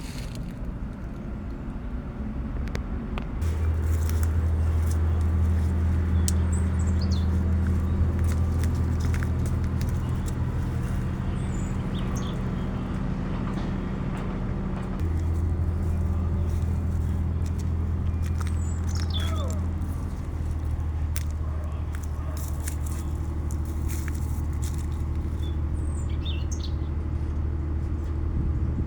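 A steady low hum, such as a motor or vehicle running, strengthens a few seconds in and carries on. Over it a bird gives short, high, falling chirps about four times.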